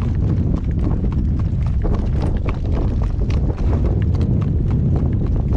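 Hooves of a newly shod horse clip-clopping on a hard road surface, a quick string of sharp knocks, over a steady low rumble.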